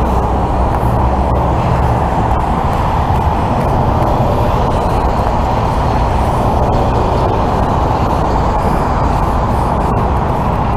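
A large truck's engine running steadily close by, mixed with freeway road noise.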